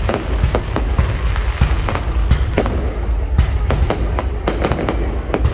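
Fireworks going off in rapid succession: many sharp bangs, several a second, over a continuous deep rumble.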